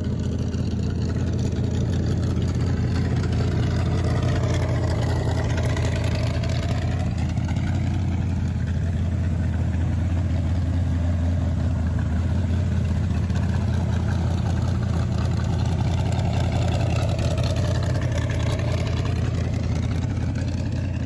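The engine of a 1929 Ford Model A hot rod idling steadily: a strong low hum, its higher tones slowly sweeping up and down.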